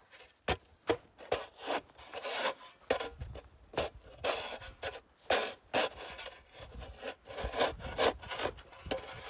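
Snow shovel scraping and chipping at hard-packed, icy snow on a driveway, in repeated short strokes about two a second.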